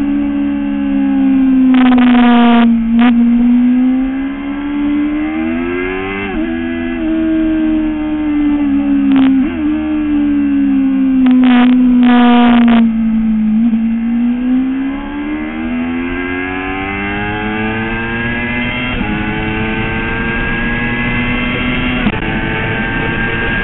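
Motorcycle engine on track, recorded by a camera on the bike. The engine note slides down and back up several times as the bike slows and accelerates, with a few short, harsher stretches about two, nine and twelve seconds in.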